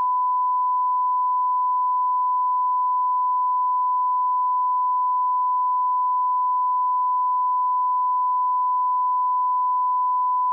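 Steady 1 kHz sine-wave line-up tone at −18 dB, a broadcast audio reference level, held at one pitch and one level.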